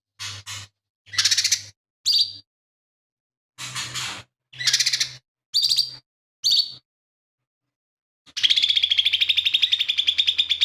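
Lesser green leafbird (cucak ijo mini) singing: several short, separate chirping phrases, then a long, rapid rattling trill about eight seconds in that runs to the end.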